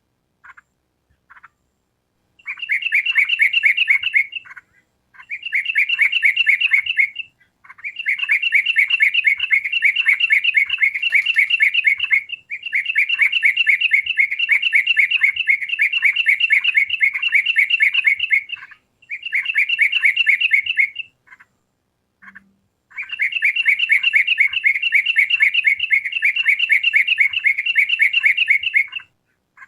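Yellow-vented bulbul (trucukan) singing: long bouts of rapid repeated chirping notes, six bouts broken by short pauses.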